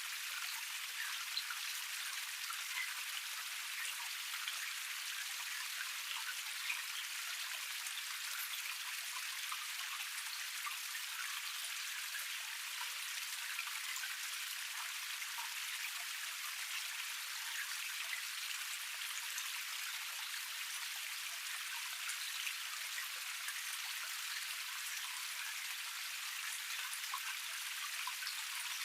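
Small forest cascade: water running and splashing over rocks in a steady rush, spattering with many small drop sounds.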